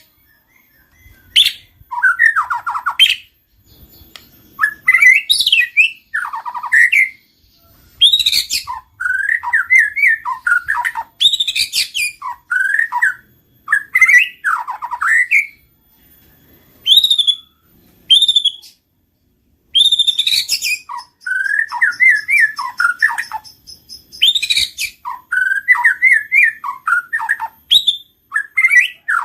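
White-rumped shama (murai batu) singing: a run of varied phrases of fast warbles and trills broken by short pauses, with some sharp, higher whistled notes.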